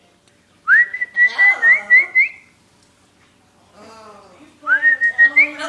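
Pet parrot whistling twice, each whistle sweeping up into a held note broken by short upward flicks, with voice-like chatter underneath and in the gap between them.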